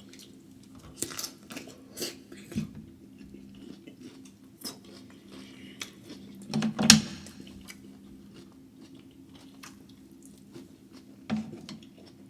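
Close-up eating sounds from a seafood boil mukbang: chewing with scattered sharp clicks and wet smacks, the loudest about seven seconds in and another near the end. A faint steady low hum runs underneath.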